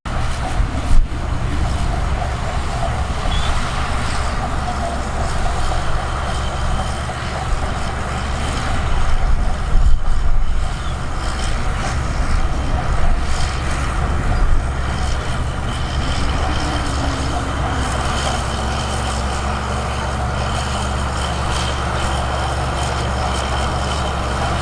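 Heavy diesel earthmoving machinery running steadily at a sand fill, with a sharp knock about a second in and a louder stretch around ten seconds in.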